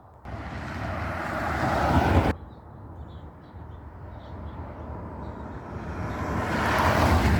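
Cars passing close by on the road, their tyre and engine noise swelling up and fading. The first cuts off abruptly about two seconds in; a second one builds and passes near the end.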